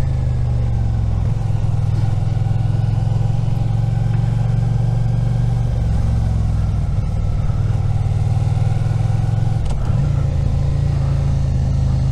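Suzuki SV650's V-twin engine running steadily under way, its pitch shifting a few times as the revs change.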